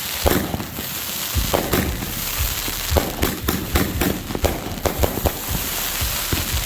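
Fireworks going off: a rapid, uneven run of sharp pops and bangs over continuous crackling.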